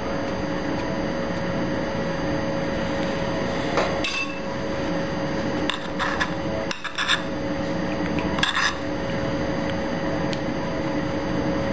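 A steady background hum, with a few brief scrapes and clinks of kitchen utensils and dishes being handled about four seconds in, around six to seven seconds, and near eight and a half seconds.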